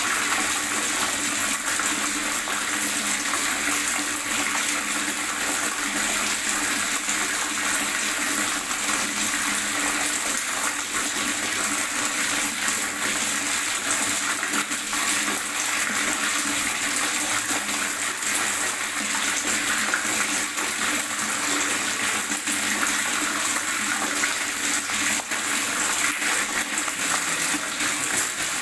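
Water gurgling and splashing in a steady, continuous stream, full of small bubbling flickers.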